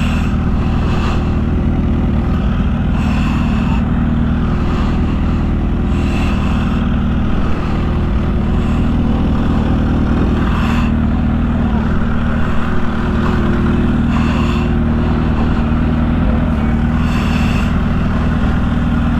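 A motor vehicle's engine running at a steady speed: a loud, even low drone with road rumble, and a few brief high ticks scattered through it.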